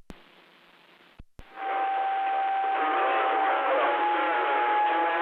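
CB radio receiver: a click as a transmission drops, about a second of faint hiss broken by two more clicks, then the channel fills with static, a steady whistle tone and garbled, overlapping chatter from distant stations.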